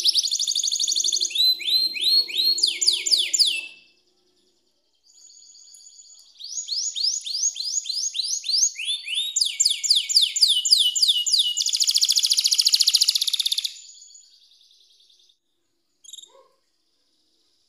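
Domestic canary singing in rapid trills of repeated high, down-slurred notes, in two long phrases with a pause of about a second between them. It is the kind of song played as a lure to set a silent canary singing again.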